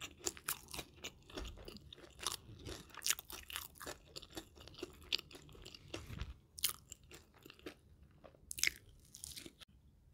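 Close-miked chewing of crispy fried chicken: a run of irregular crisp crunches with softer chewing between them, stopping just before the end.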